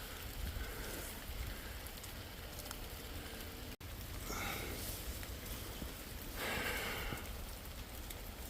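Steady rain falling in the forest, with a couple of brief louder swishes, and a momentary dropout just under four seconds in.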